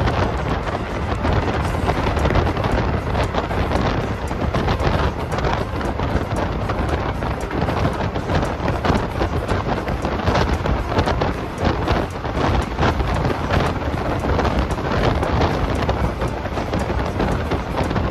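Passenger train running, heard from inside a coach with the window open: a steady low rumble of wheels on the rails, dense with rattles and knocks, and wind rushing in.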